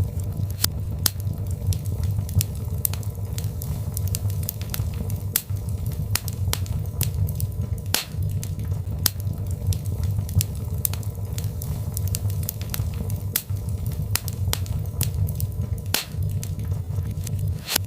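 Birchwood fire burning in a fireplace: frequent, irregular sharp crackles and pops over a steady low rumble of the flames.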